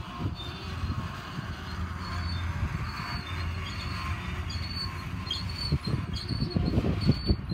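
Double-stack intermodal well cars rolling past at close range: a steady rumble of steel wheels on the rails, with irregular knocks from the wheel trucks, louder in the second half.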